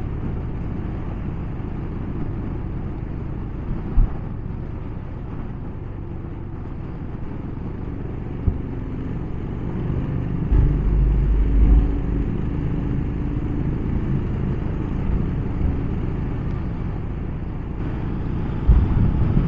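Motorcycle on the move at a steady cruise: a continuous low rumble of engine, wind and road. There are a few short low knocks, and the low rumble swells briefly a little past halfway.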